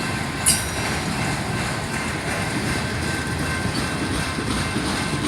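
Train cars rolling slowly past: a steady rumble, with one sharp metallic clank about half a second in.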